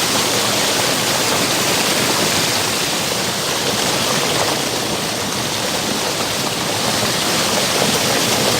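Rushing creek water, a strong current pouring over rocks close to the microphone: a loud, steady rush.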